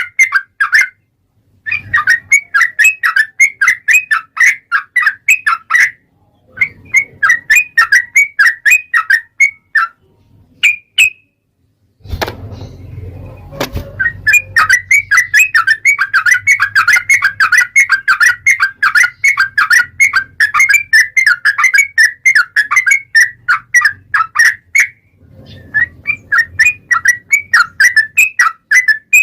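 Yellow-vented bulbul (trucukan) singing a long, rapid chattering song of many quick notes a second, in long runs broken by short pauses. A brief low rumble sounds about twelve seconds in.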